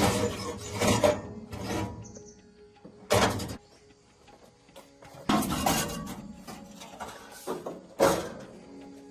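Hard clattering knocks of metal tools and parts being handled and set down: about eight separate impacts with short quiet gaps between them.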